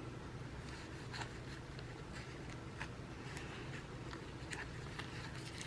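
Faint light ticks and paper rustling from handling sticker sheets, scattered irregularly over a low steady room hum.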